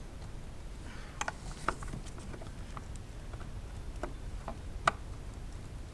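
Hand tools and bolt hardware clicking and tapping in the engine bay, about seven sharp, irregular clicks over a few seconds.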